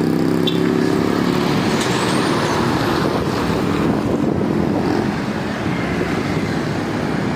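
Heavy trucks running past on a road. An engine note is plain in the first couple of seconds, then gives way to a steady rush of road noise.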